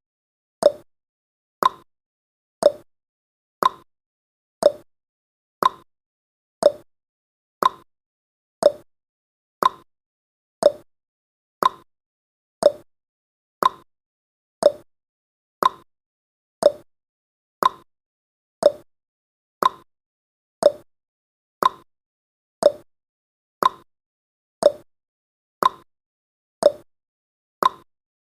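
Countdown timer's clock-ticking sound effect: a short, sharp tick once a second, alternating higher and lower like a tick-tock, with silence between.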